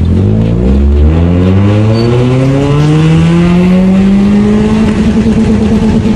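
Toyota Corolla's engine heard from inside the cabin, its pitch rising steadily as the car accelerates for about five seconds, then levelling off near the end.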